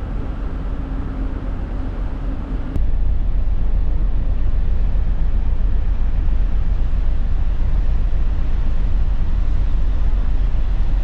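Ferry at sea heard from the open deck: a steady engine drone with a faint hum, then about three seconds in an abrupt change to louder, rumbling wind noise on the microphone over the ship's drone.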